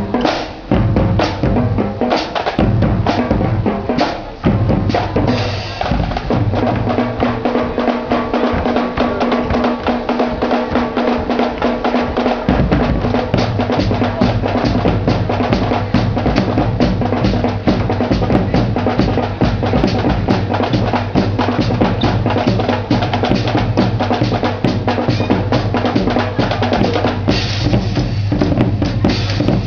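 Drum band playing a fast, driving rhythm on snare and bass drums, with held tones and a low bass line underneath. The low bass drops out for a few seconds about a quarter of the way in, then comes back.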